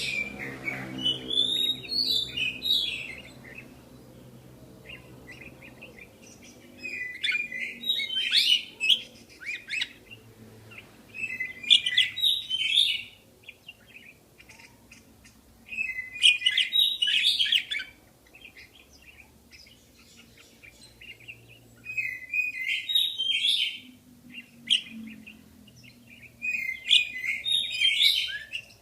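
Budgerigars chirping and warbling in short rapid chattering bouts of a second or two, coming every few seconds with quieter pauses between.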